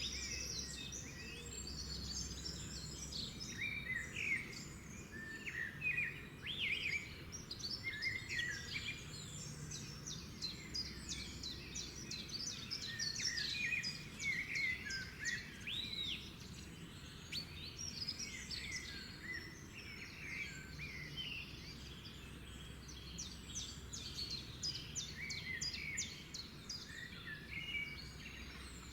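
Several songbirds singing at once in a dawn-chorus-like mix: many overlapping chirps, trills and short whistled phrases, continuous throughout, over a faint low background rumble.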